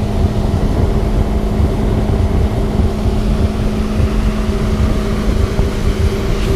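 An engine running at a steady speed, with a constant hum and heavy low rumble of wind buffeting the microphone.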